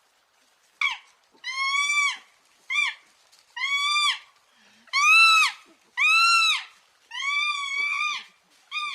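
An animal calling over and over, about eight high-pitched cries in quick succession, each rising and then falling in pitch.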